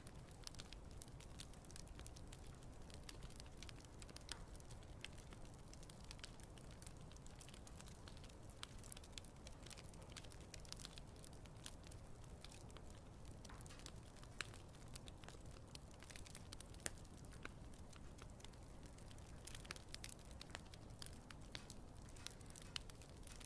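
Wood campfire crackling softly: scattered small pops and snaps over a low steady rumble of the burning fire, with a couple of sharper pops about halfway through.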